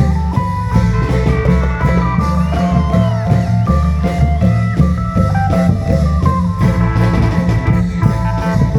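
Isan klong yao band music: a melodic lead that steps and slides between notes, playing a khaen-style tune over steady long drums and a heavy bass line.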